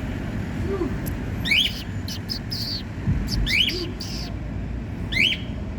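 A caged bird calling: three sharp rising chirps about two seconds apart, with shorter high notes between them, over a low background rumble.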